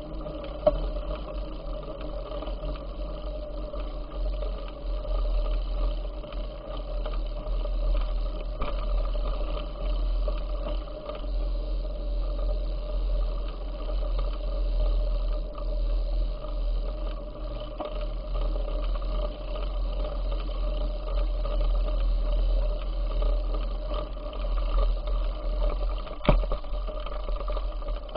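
Wind buffeting a camera microphone on a moving bicycle: a steady low rumble with a constant hum over it. There is a sharp knock about a second in and another near the end.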